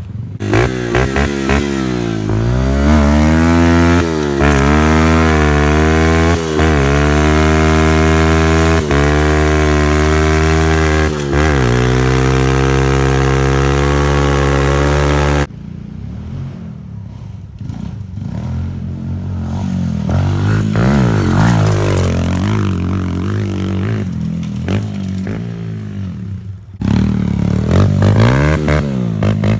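Thumpstar 110 pit bike's small single-cylinder four-stroke engine revving up and down as it is ridden. It is loud and close for about the first fifteen seconds, then cuts to a quieter, more distant engine rising and falling, and comes in loud again near the end.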